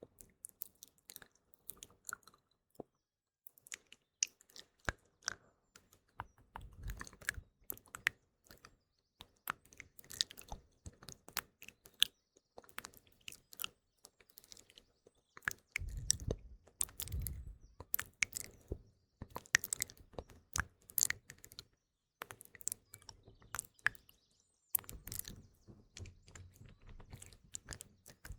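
Close-miked ASMR mouth sounds: a run of wet clicks and smacks at an uneven pace, with a few soft breathy swells. Faint morning birdsong sits behind them.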